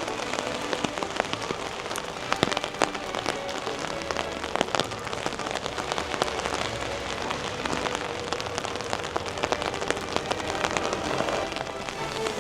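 Steady spring rain falling, with many close, sharp drop ticks of rain hitting an umbrella overhead.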